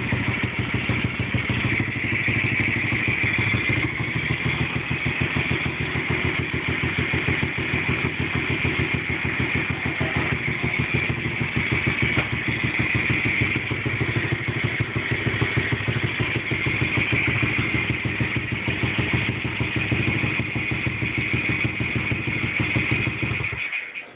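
A 110cc BXM pitbike's single-cylinder four-stroke engine idling steadily with an even, rapid pulse. Near the end it cuts off suddenly as the engine is shut down.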